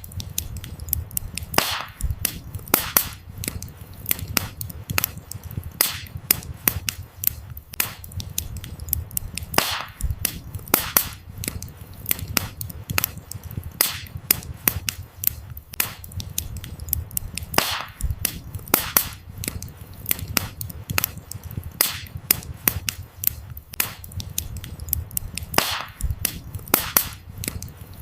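Burning firewood crackling and popping: many sharp snaps at irregular intervals, a few louder pops standing out, over a low steady rumble of the flames.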